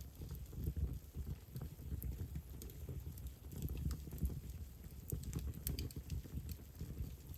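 Wood fire burning in a fireplace: many small, sharp crackles and pops at irregular intervals over a steady low rumble of the flames.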